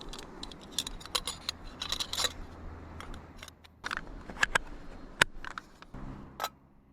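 Gear being handled: a rapid, irregular series of small clicks, knocks and light metallic clinks. A low steady hum starts about six seconds in.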